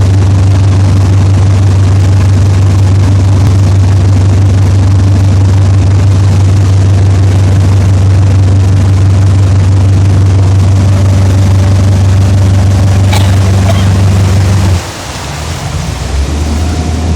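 Motorboat engine running at a steady speed, a loud low drone with water and wind noise over it. About fifteen seconds in the engine is throttled back and settles at a lower pitch.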